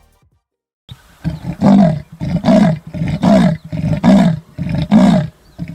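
Leopard's sawing call: a run of about six loud, rasping grunts, evenly spaced a little under a second apart.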